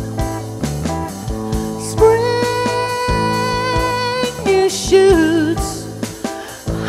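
A small band playing a song: strummed guitar and drums under a lead melody that holds one long note about two seconds in, then moves on in shorter wavering notes.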